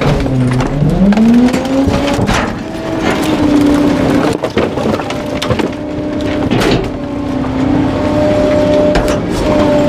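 Garbage truck engine speeding up about a second in and holding at a raised speed as the packer runs, with scattered cracks and crunches of bulky items being crushed.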